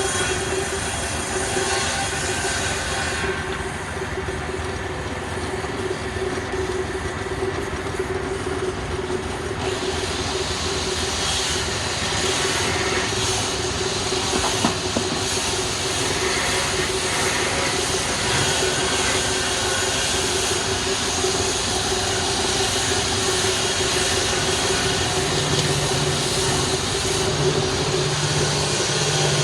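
Wood lathe running steadily: an even hissing noise over a constant hum.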